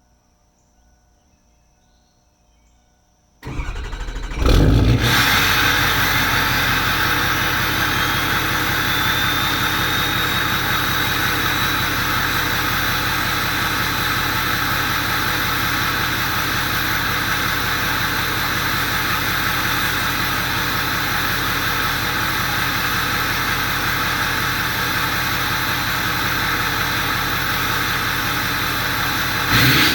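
Faint crickets for about three seconds, then a 2004 Ford F-250's 6.0 Powerstroke turbodiesel V8 starts through its 4-inch turbo-back exhaust and settles into a steady run. A high turbo whistle rises over a few seconds and then holds steady over the engine, with a short surge in engine sound near the end.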